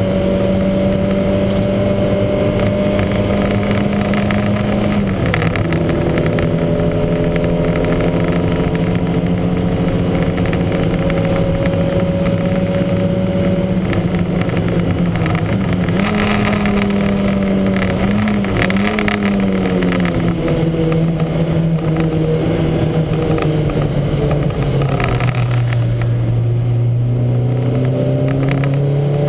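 Lancia Montecarlo race car's engine running hard under load, its pitch slowly climbing, then dropping sharply at gear changes about five seconds in and near the end, with a wavering dip midway. The engine has a heavy misfire.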